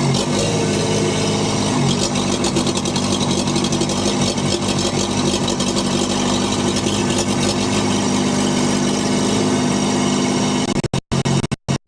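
STL1000 engine running steadily while driven, with the irregular missing of a misfire that the owner has heard since new. The sound drops out briefly several times near the end.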